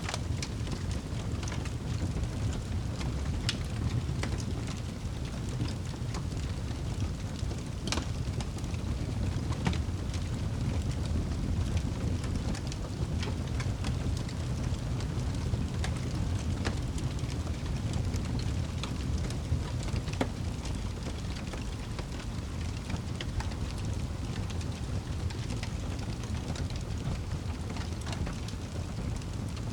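Wood fire burning in a fireplace: a steady low rumble of flames with frequent sharp crackles and pops scattered at random, one louder pop about eight seconds in.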